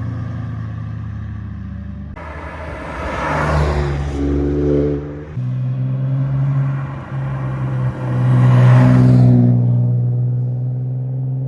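Cars passing one after another, their engines pulling through the gears; two pass-bys swell and fade, the second louder.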